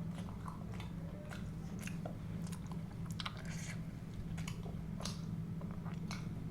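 Close-miked chewing and biting of food, with many short crisp crunches and clicks at an irregular pace over a steady low hum.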